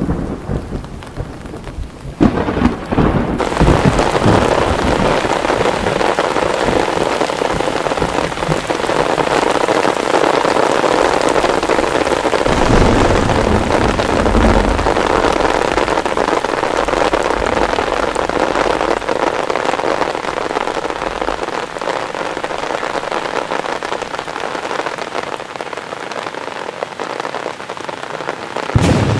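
Heavy rain pelting a pond's surface, becoming a dense, even downpour about three seconds in. Thunder rumbles low about midway, with another short rumble near the end.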